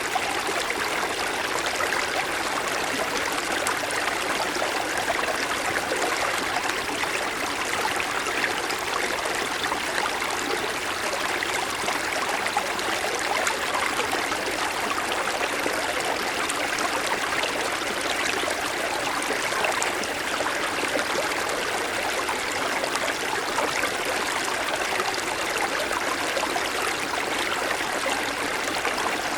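Small mountain stream running over snow-covered stones: steady rushing and trickling water.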